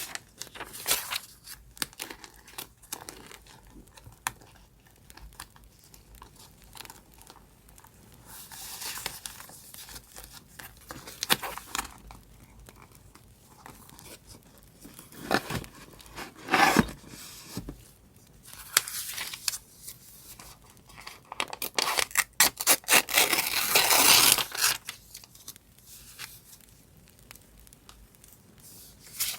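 Paper being handled and torn: scattered small clicks and rustles between several longer tearing strokes, the longest and loudest about three-quarters of the way through.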